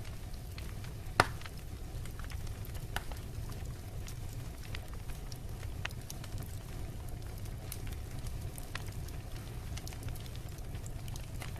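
Wood bonfire crackling, with scattered small pops and one sharper pop about a second in, over a steady low rumble.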